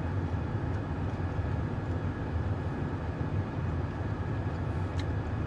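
Steady low rumble of a car's engine idling, heard from inside the cabin, with a faint click near the end.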